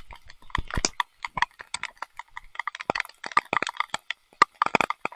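Heavy rain, heard as irregular sharp taps of drops striking the phone's waterproof case close to the microphone.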